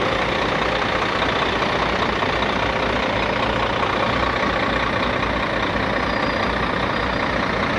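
Ford manure truck's engine idling steadily.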